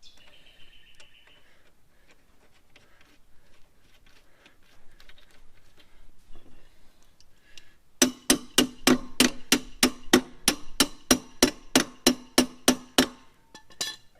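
A hammer tapping on metal, about twenty quick, even strikes at roughly four a second, each with a short metallic ring. Faint handling clicks come before it.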